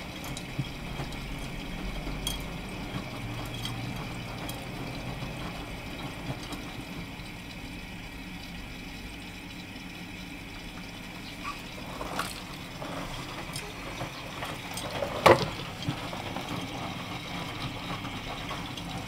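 Miele washing machine running with water flowing in as it fills, a steady rushing hiss over a low hum. A few light clicks, and one sharp knock about fifteen seconds in.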